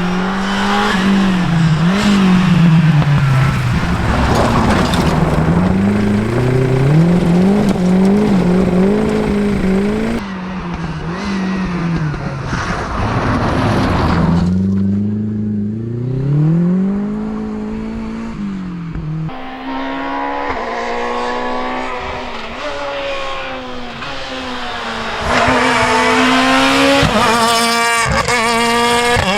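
Rally car engines at full throttle, the pitch climbing through the revs and dropping again over and over as the cars shift gear and lift for corners. The sound changes abruptly about ten and nineteen seconds in, as if moving to different cars.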